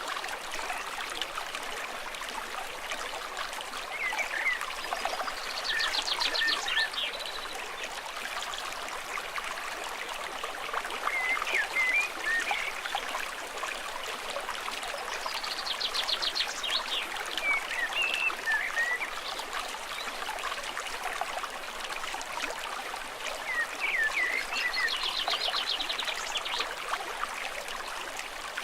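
Stream water running steadily over rocks, with short chirping calls and a fast high trill from a small animal repeating about every ten seconds.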